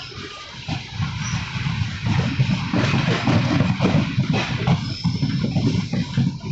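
Alappuzha–Dhanbad Express passenger train running on the rails: a steady low rumble with irregular clattering knocks.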